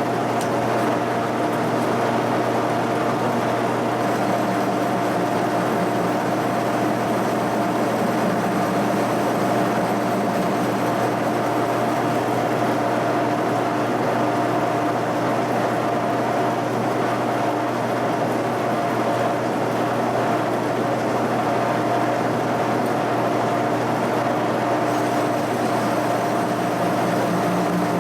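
A shop machine tool running steadily with an even motor hum and a few constant tones, no starts, stops or impacts.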